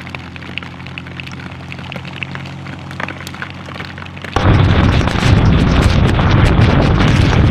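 Motorcycle engine running steadily while hail ticks against the rider and the camera. About four seconds in, a loud rush of wind on the microphone abruptly takes over.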